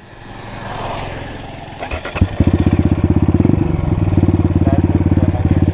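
Suzuki RM250 two-stroke single-cylinder dirt bike being started: a couple of sharp knocks, then the engine catches about two and a half seconds in and runs with a fast, steady beat.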